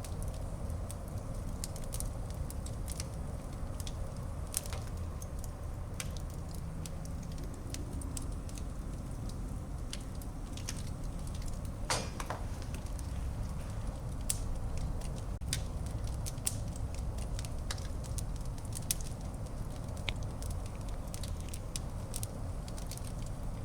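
Wood fire burning in a fireplace: a steady low rumble of the flames with irregular sharp crackles and pops throughout, one louder pop about halfway through.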